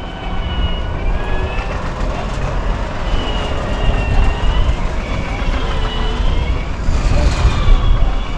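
Electric Unimog truck driving over rough ground, its electric drive giving a high whine that rises and falls with its speed over a heavy rumble.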